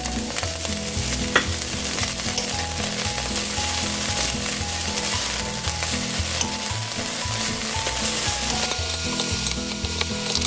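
Mung bean sprouts sizzling as they are stir-fried in a hot oiled nonstick pan, a steady hiss of frying, with a wooden spatula stirring and tossing them.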